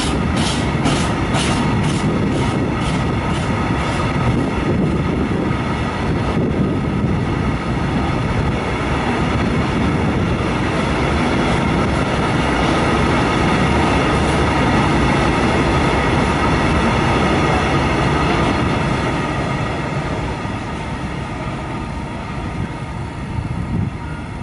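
Open coal wagons of a freight train rolling past on the rails. For the first few seconds the wheels click over the rail joints in a quick even rhythm. After that comes a steady rumble with a thin high ringing tone, easing slightly near the end as the last wagons pull away.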